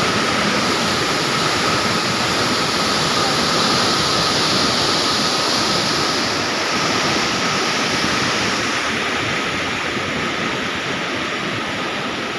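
A river in flood rushing through a barrage: a loud, steady noise of fast-moving water, with a thin steady tone running above it.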